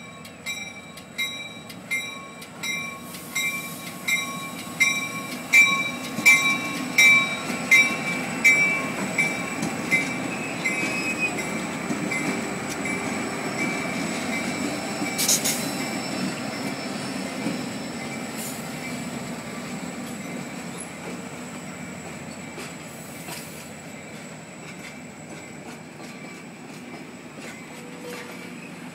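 A diesel passenger train passing slowly and close by. The locomotive's bell rings steadily, a little under two strikes a second, growing louder as it draws level and stopping about ten seconds in. The engine's low rumble and the rolling wheels of the passenger cars then fade slowly as the cars go by.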